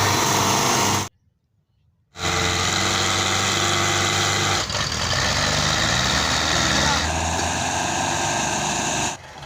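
Tractor engines running steadily in short clips spliced together. The sound cuts out abruptly for about a second near the start, then comes back, with sudden shifts in tone about halfway through and again later, as each clip changes.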